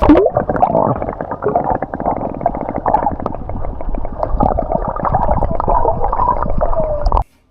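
Muffled gurgling and bubbling of water heard with the microphone underwater, with a low rumble beneath. It starts abruptly and cuts off suddenly near the end.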